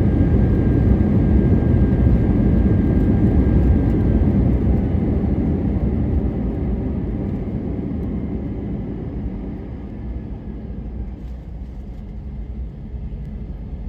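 Cabin noise of an Airbus A321-200 slowing on the runway after landing: a loud, steady rush of engine and air noise that gradually dies away, with a thin high whine fading out about five seconds in.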